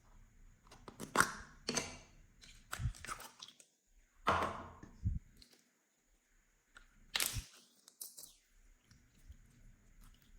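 Slime being squished and worked by hand: a string of short wet crackles and pops, with longer squelches about four seconds in and again about seven seconds in.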